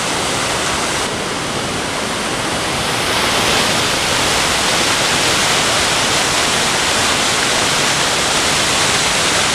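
Waterfall on a mountain river, a steady rush of water pouring over rocks that gets louder about three seconds in.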